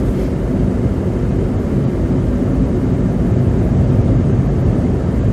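A car driving along a slushy road, heard from inside the cabin: a steady low rumble of engine and tyres running through slush.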